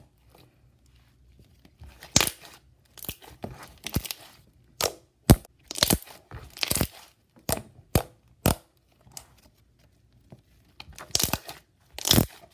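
Homemade slime being squished and pressed by hand, giving irregular sharp pops and crackles as air pockets burst, with a couple of brief quiet pauses.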